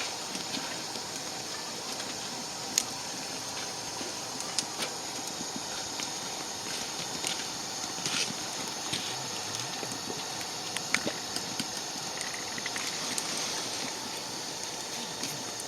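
Wood fire burning in a camp fire stove: a steady hiss with scattered sharp pops and crackles, a louder pop about three seconds in and another near eleven seconds.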